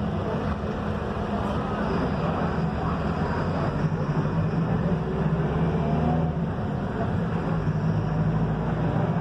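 Mercedes-Benz OF-1721 BlueTec 5 bus's front-mounted diesel engine running steadily under way, with road rumble, heard from inside the bus.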